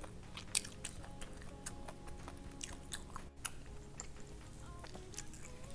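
Close-up mouth sounds of chewing a mouthful of rice with beef shank: irregular small clicks and smacks from the mouth. Quiet background music runs underneath.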